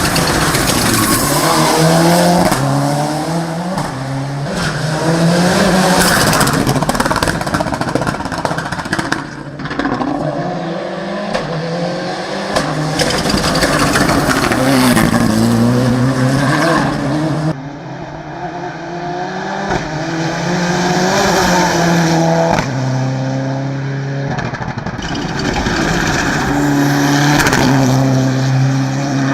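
Turbocharged 2.0-litre four-cylinder engine of a Mitsubishi Lancer Evolution VI hill-climb car at full throttle, its pitch climbing hard and dropping back again and again as it shifts through the gears. The sound changes abruptly about two-thirds of the way through.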